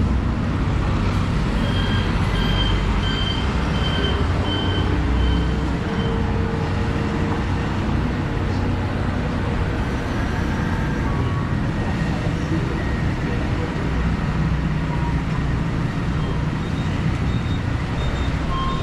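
Steady street traffic, a continuous low rumble of passing vehicles. A run of short, evenly spaced high beeps, about one every half second, sounds for a few seconds starting about a second and a half in, and again near the end.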